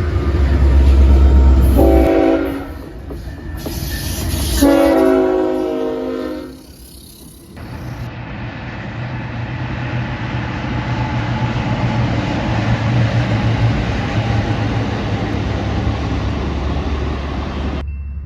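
BNSF diesel freight train: the locomotive's multi-tone air horn sounds twice, a short blast about two seconds in and a longer one about five seconds in. From about eight seconds the train rolls past with a steady rumble, which cuts off near the end.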